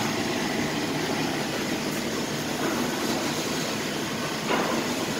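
Laser cutting machine running: a steady mechanical noise with a faint hum, briefly louder about four and a half seconds in.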